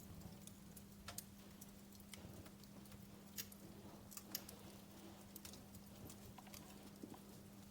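Wood fire crackling softly: sparse, irregular small pops and snaps, a few sharper than the rest, over a faint steady hum.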